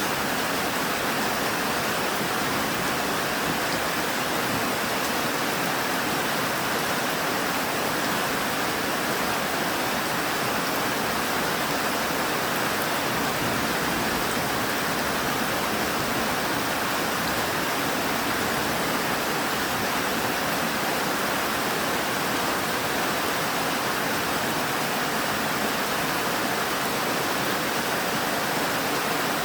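Steady rain, an even dense hiss with no separate drops, thunder or pauses standing out.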